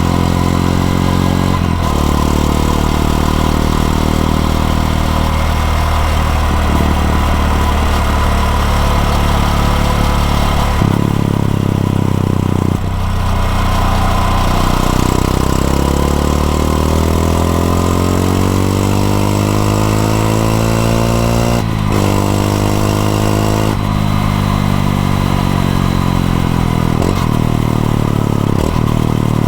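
Honda XRE 190 motorcycle's single-cylinder engine under way, revs rising and dropping with several gear changes and a long climb in revs about halfway through.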